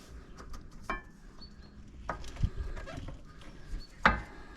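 Scattered metal clinks and knocks as rear brake pads and their clips are handled and seated in the caliper bracket, the loudest knock about four seconds in.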